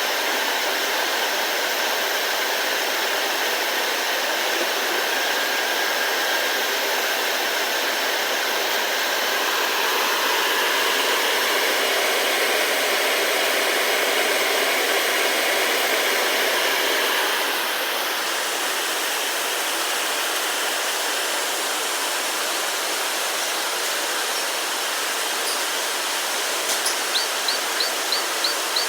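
Steady rushing, hiss-like machine noise from N2 loadlock furnace equipment, dipping slightly in level about two-thirds of the way through. Near the end a quick series of short, high ticks starts, about three a second.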